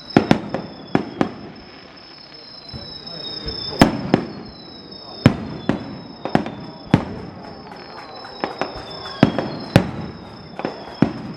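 Fireworks going off overhead: about fifteen sharp bangs at irregular intervals, a quick cluster just after the start and more spread through the rest. Each bang is followed by a short echo.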